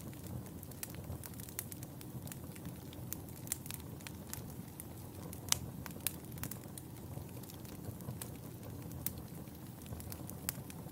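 Fireplace fire crackling, with a steady low rumble of flame and irregular sharp pops and snaps, one louder pop about halfway through.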